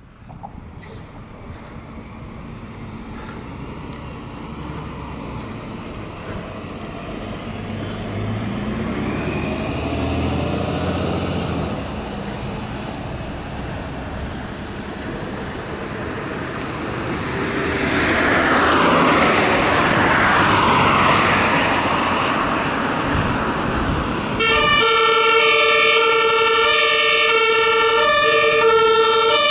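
Emergency vehicles approaching and passing, their engine and tyre noise swelling over the first twenty seconds. From about 25 s a German two-tone emergency siren sounds loud and close, switching back and forth between two notes.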